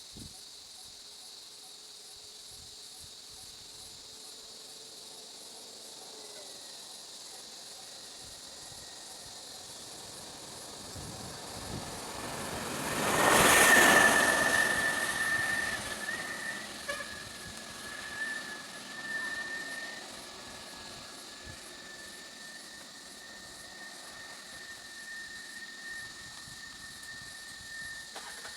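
A steady high insect drone, joined about six seconds in by a thin, steady, high single tone. About halfway through, a vehicle passes close by, its rushing noise swelling and fading over a few seconds.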